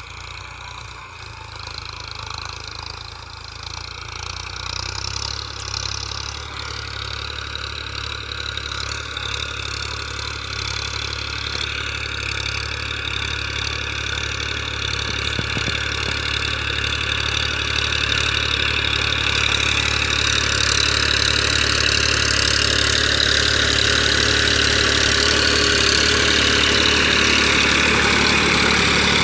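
Massey Ferguson 1035 tractor's three-cylinder diesel engine running, growing steadily louder over the whole stretch.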